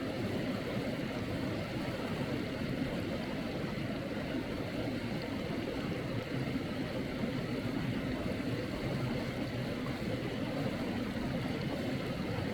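Valley stream water running, a steady even rush with no breaks.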